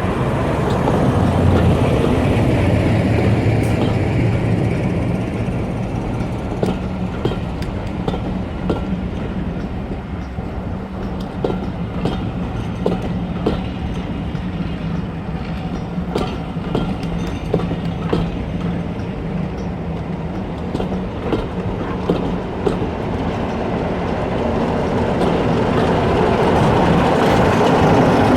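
Train running along the line, its wheels clicking over the rail joints, with a steady low hum underneath. The sound is louder near the start and again near the end.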